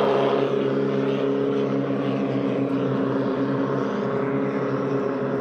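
Boat engine, a Mitsubishi L300 engine fitted to a racing boat, running steadily at a constant pitch.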